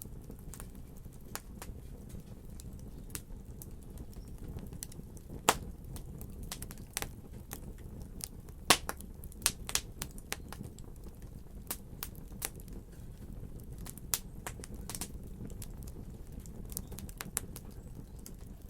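Wood fire burning in a fireplace: a steady low rumble of flames under irregular crackles and sharp pops, two louder pops about five and a half and nearly nine seconds in.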